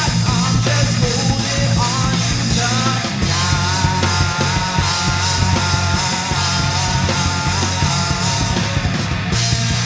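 Hard rock band playing: electric guitars, bass and drums, with a repeating high guitar melody through the middle.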